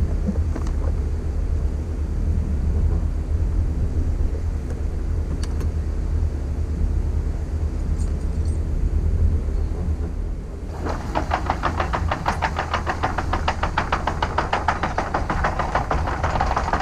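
An engine running steadily with a low hum; about eleven seconds in, a fast, even mechanical clatter starts over it and keeps going.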